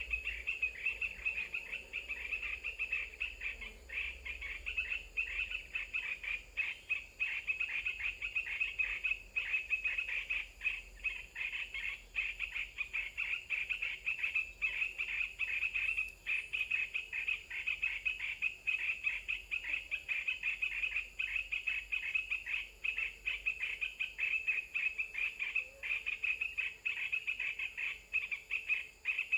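A dense, steady chorus of rapid high chirping pulses from wild animals in the forest, holding one pitch.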